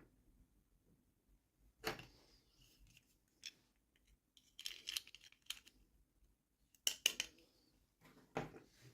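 Scissors cutting open plastic toy packaging: a handful of separate snips and crinkles with short pauses between them, the loudest pair about seven seconds in.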